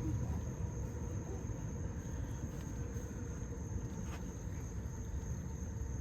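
Insects singing a steady, high, thin tone over a low, continuous rumble, with one faint click about four seconds in.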